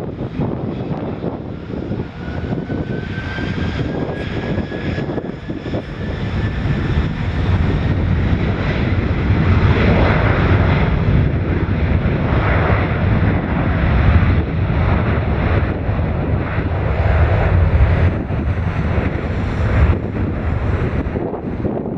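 Boeing 767-300ER's twin jet engines spooling up to takeoff power: a rising whine in the first few seconds, then a heavy roar that grows loud about halfway through and stays loud.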